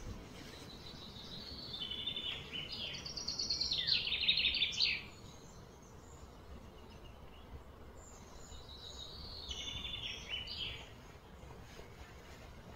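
A bird singing twice: a run of rapid, high chirping notes that grows louder and stops abruptly, then a shorter, fainter phrase later on, over a low outdoor background hum.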